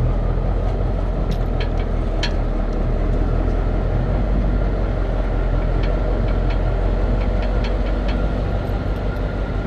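Vehicle engine running steadily with a continuous low rumble, with a few light clicks and rattles over it.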